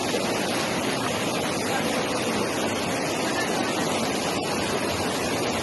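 Steady rushing of water, an even unbroken noise with no distinct events.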